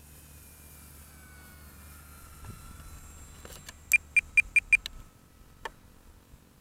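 Faint electric-motor whine that falls steadily in pitch, then a quick run of five sharp, high electronic beeps past the middle, followed by a single click.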